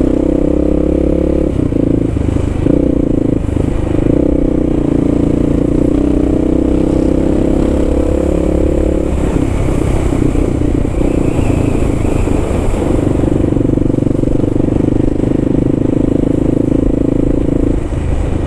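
Kawasaki KLR650's single-cylinder engine running while riding, with a steady engine note that fades out for a few seconds about nine seconds in and then comes back.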